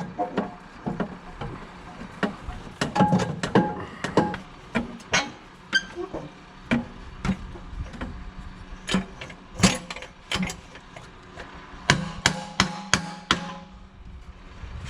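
Irregular metal knocks and clanks, some with a brief ringing, from hand tools striking and working a stuck part on a skid-steer loader.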